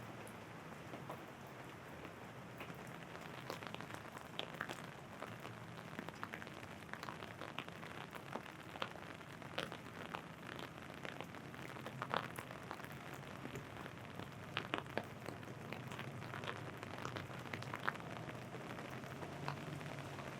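Rain falling, with drops tapping sharply and irregularly on an umbrella overhead over a steady hiss of rain on the ground. A low hum grows near the end.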